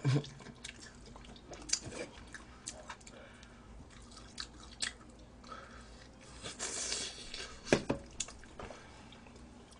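People chewing and biting fried chicken close to the microphone, with scattered short clicks and a louder click a little before eight seconds in.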